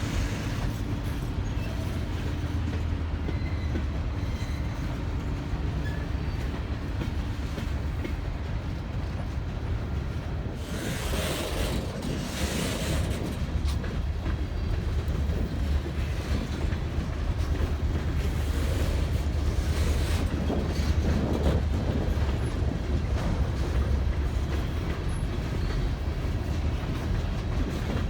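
Ballast train of railroad cars rolling along the track, wheels clattering over the rails under a steady low drone, with brief louder hissing stretches in the middle.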